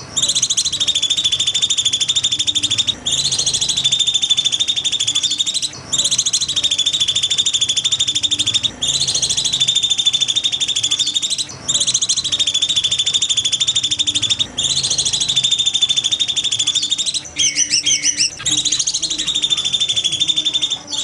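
Songbird masteran recording: a rapid, high, buzzy trill held for about three seconds at a time, repeated about seven times with short breaks. Near the end one phrase breaks into shorter separate notes.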